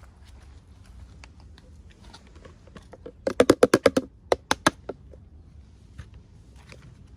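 Hands handling small plastic toy packaging: light scattered clicks, then a quick run of about seven sharp taps a little over three seconds in, and three or four more just after.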